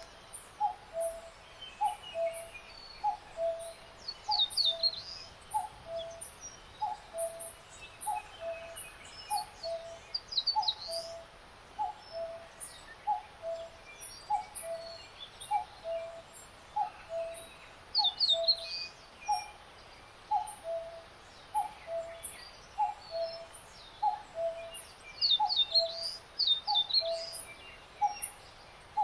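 Birdsong soundtrack: a low two-part call repeating evenly, more than once a second, with bursts of quick, high, falling song notes breaking in four times.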